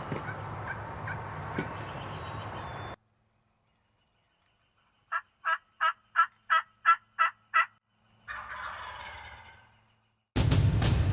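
A noisy stretch with a few clicks cuts off suddenly, and silence follows. Then comes a wild turkey's string of eight evenly spaced yelps, about three a second, and after it a gobble that fades away. A loud sound starts abruptly just before the end.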